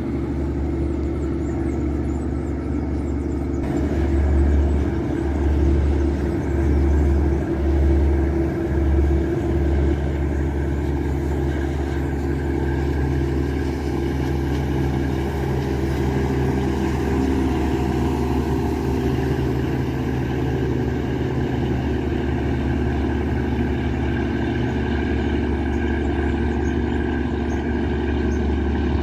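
Riverboat's Yanmar 829 hp marine diesel engine running steadily at cruising speed: a deep hum with several steady tones over it. The low rumble swells a few times about a quarter of the way in.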